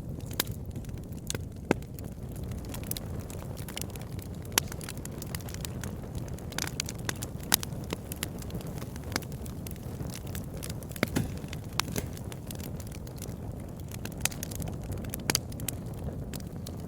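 Campfire burning with a steady low rumble and irregular sharp crackles and pops of burning wood, a few a second.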